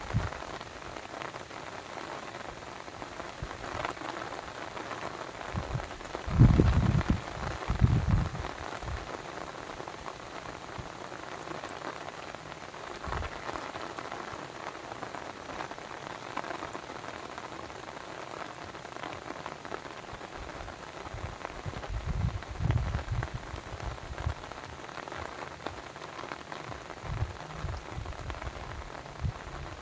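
Steady splashing and pattering of water, like rain or a babbling brook, with a few louder deep low rumbles, the strongest about six to eight seconds in and again later.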